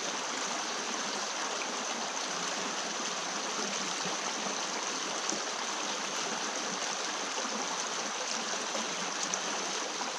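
Small stream running steadily, an even rush of flowing water.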